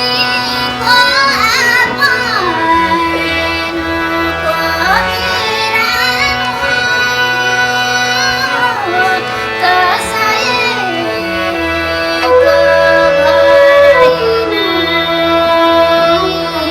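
Live Nepali folk song in the thade bhaka style: a melody sliding up and down in long ornamented glides over steady held notes of accompaniment.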